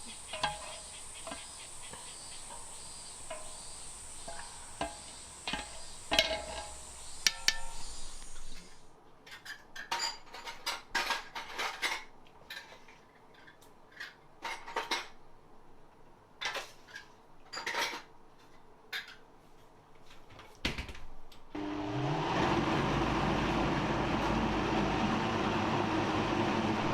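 A metal utensil clinking and knocking against a cooking pot, irregular sharp knocks, over a high steady insect chorus for the first third. The insects stop abruptly. Near the end a steady mechanical drone with a rising start takes over and grows louder than the knocking.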